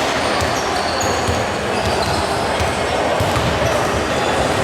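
Indoor basketball game: a ball bouncing and short, high sneaker squeaks on the court over steady crowd noise in the hall.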